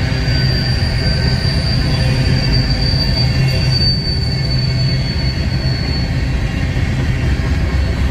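Train rolling by over a heavy low rumble, its steel wheels squealing against the rail in one steady high tone that fades out about six seconds in.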